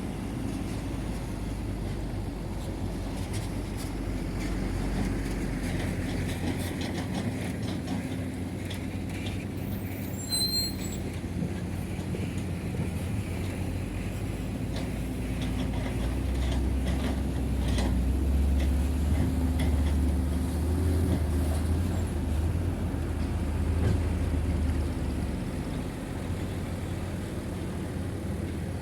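Heavy diesel earthmoving machinery, dump truck and bulldozer engines, running steadily. The engine note gets deeper and louder for several seconds past the middle, as a machine works under load, and a brief high chirp sounds about ten seconds in.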